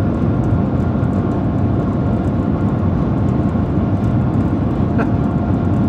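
Shanghai Maglev train heard from inside the cabin while cruising at 431 km/h: a steady low rumble of rushing air and running noise, with a faint steady whine above it.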